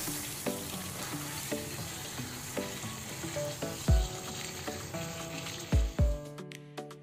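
Chicken legs in a thick curry masala sizzling in a nonstick pan as they are stirred with a spatula; the sizzle stops about six seconds in. Light background music with a plucked melody and a few deep drum hits runs underneath.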